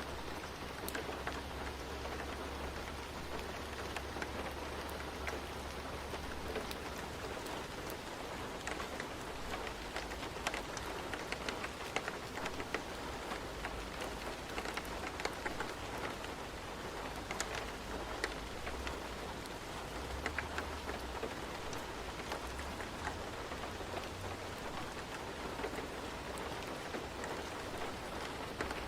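Steady rain falling, an even hiss, with many scattered sharp crackles like a wood fire burning and a low rumble that comes and goes.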